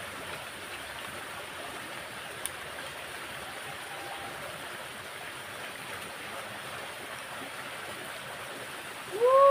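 Steady rush of flowing water in a rain-swollen drainage ditch. Near the end, a brief loud cry rises and then falls in pitch.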